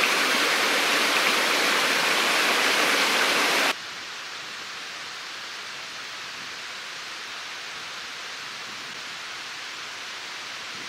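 Steady, even rushing hiss outdoors, loud for the first few seconds and then cutting abruptly to a softer steady hiss.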